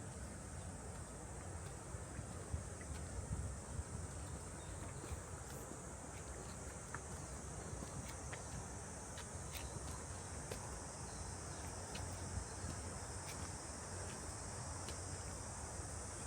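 Cicadas in a midsummer forest, a steady high-pitched chorus that holds unbroken throughout.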